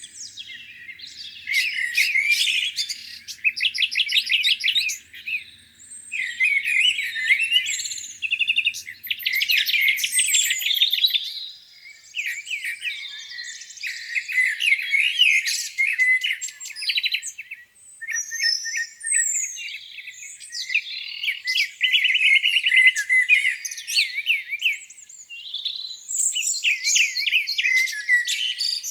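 Several songbirds singing at once in a spring dawn chorus: overlapping trills and chirping phrases with brief gaps between bursts.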